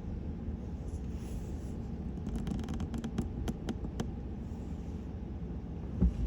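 Low steady rumble of a vehicle idling, heard from inside the cab. About halfway through comes a quick irregular run of small sharp clicks, and near the end a thump.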